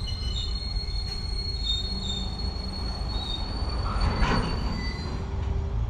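Container freight train's wagons rolling along the track with a steady low rumble, and thin high-pitched wheel squeal coming and going over it. A brief louder rush sounds about four seconds in.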